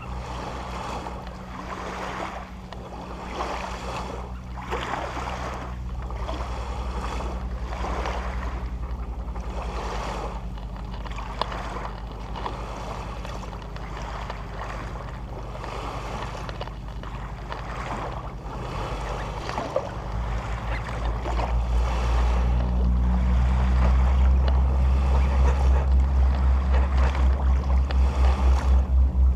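A boat's engine running steadily over the rush of water and wind. About two-thirds of the way through the engine grows louder, with a steady throb.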